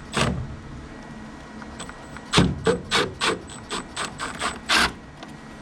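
Hand tool clicking and knocking on metal while a screw is loosened on a gas furnace's inducer draft motor: one click, then a run of about nine sharp, uneven clicks over two and a half seconds.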